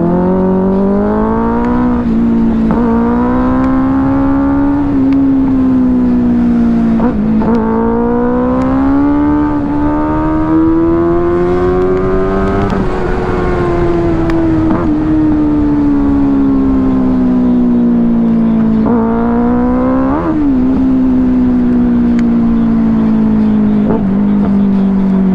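Benelli 600i inline-four motorcycle engine under way, climbing in pitch and dropping sharply at gear shifts about two, five and seven seconds in. It revs up to a peak about halfway through, then slowly winds down. A short rise and sharp drop about twenty seconds in is followed by a steady slow fall.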